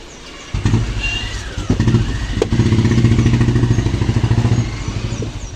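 A motorcycle engine running with a fast, even pulse. It comes in suddenly about half a second in, gets louder through the middle and eases slightly near the end.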